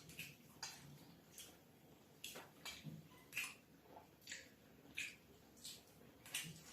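Faint eating sounds at a dinner table: irregular small clicks and wet smacks, about one or two a second, from chewing and from chopsticks and dishes.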